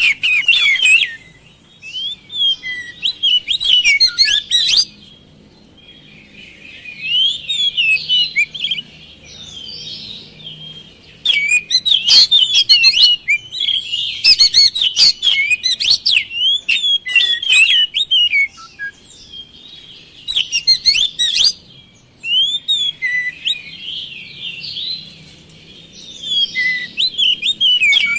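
Oriental magpie-robin (kacer) singing: loud, varied phrases of quick whistled notes mixed with sharp clicking notes, broken by short pauses of a second or two.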